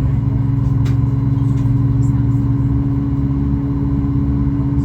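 Steady low hum of a Boeing 737 MAX 8's CFM LEAP-1B engines at taxi power, heard inside the cabin, with a faint click about a second in.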